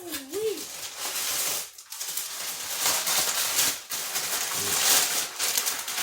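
Cardboard box and packaging being handled and opened by hand: a steady run of rustling and crinkling with many small scrapes and clicks.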